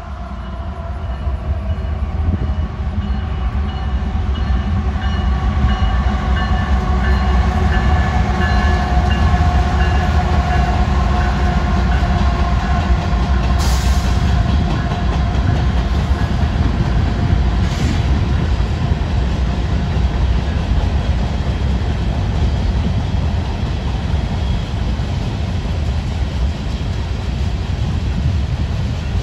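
CSX mixed freight train passing close: the diesel locomotive's engine drone, then the freight cars rumbling and clattering along the rails. Two sharp clanks stand out about halfway through, a few seconds apart.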